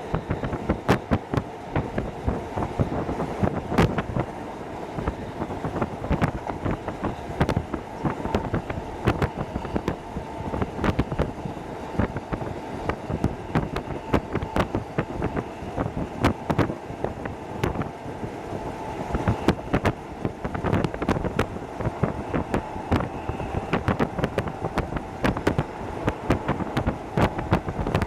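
Hokuso Railway 7260 series electric train running, heard from inside the car: a steady rumble of wheels on rail with a constant irregular clatter of clicks and rattles and a faint steady whine.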